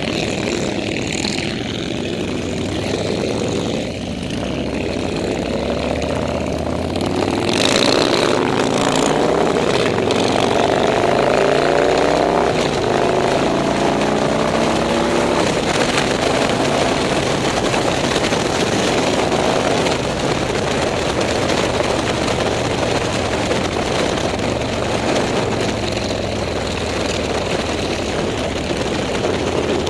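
Motorcycle engines running as a group rides, with engines revving and passing, their pitch rising and falling between about seven and sixteen seconds in, over a steady engine drone.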